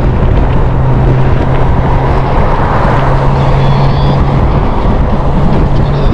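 Motorcycle running steadily at cruising speed, its engine drone buried under loud, even wind rush on the microphone.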